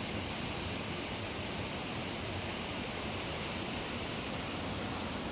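Steady, even rushing of fast-flowing water, such as a waterfall or river rapids, with no break or change.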